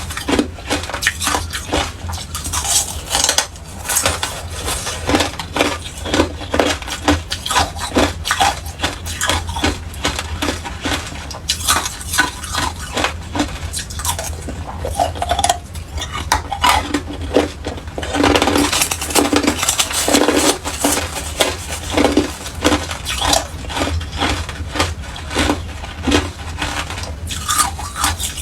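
Hard clear ice being bitten and crunched, a dense run of sharp cracks and crackles.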